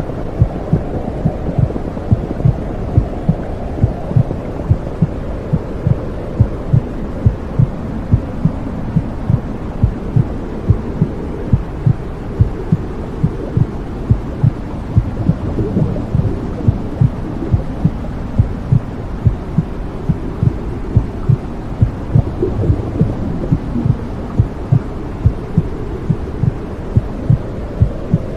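Womb sound: a steady heartbeat, about two beats a second, over a continuous low, muffled whooshing noise.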